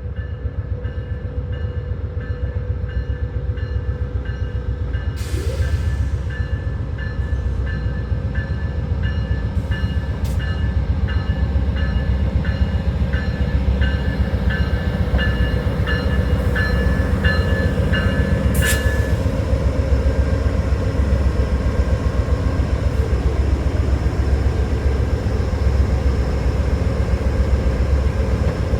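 Amtrak P42DC diesel-electric locomotive rumbling heavily as it pulls its train into the station, with a bell ringing about twice a second that stops about two-thirds of the way through.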